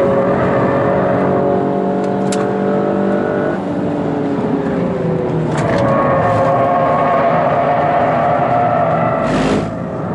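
Toyota GR Yaris's turbocharged three-cylinder engine heard from inside the cabin, driven hard on track. The note holds steady, falls in pitch a little after three seconds in as the driver eases off, then picks up again around six seconds in. There is a brief rush of noise near the end.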